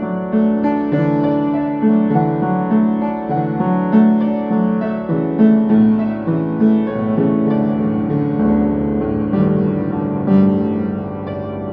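Slow instrumental piano music with no singing, an instrumental passage of a gospel song. Deeper bass notes come in about two-thirds of the way through.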